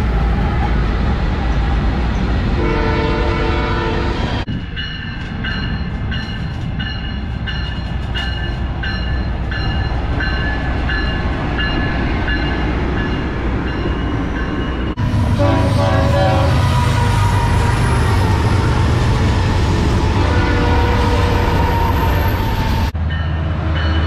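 Trains passing close by, in several cuts: the BNSF freight train's diesel locomotives rumbling and sounding their horn, then a passenger train with a steady high ringing for several seconds. More horn blasts follow, and a locomotive's deep rumble comes in near the end.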